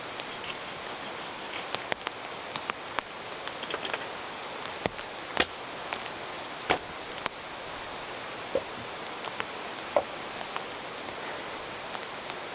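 Steady rain falling, with a few sharp knocks a second or two apart as wet firewood is chopped.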